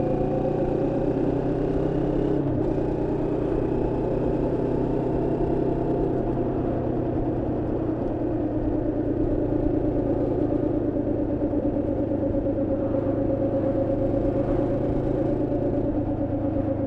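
Moto Morini X-Cape 649's parallel-twin engine running steadily under way while the bike is being run in, with a brief change in engine note about two and a half seconds in.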